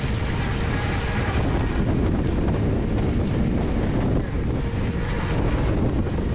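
Wind rushing over the microphone of an electric unicycle rider on the move, a steady rumbling noise that is heaviest at the low end.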